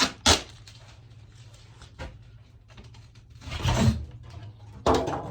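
Packing material being handled and pulled off a new fridge freezer: a sharp knock just after the start, then two short rustling, scraping bursts about three and a half and five seconds in.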